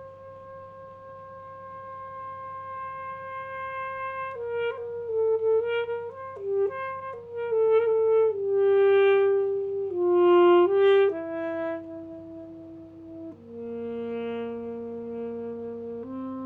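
Solo alto saxophone. A long held note swells louder for about four seconds, then breaks into a quick flurry of short notes, then settles into a few held notes that step downward to a low sustained note near the end.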